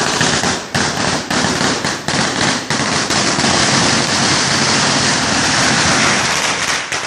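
Firecrackers going off in a dense, continuous crackle, with many sharper bangs mixed in. The noise fades off just at the end.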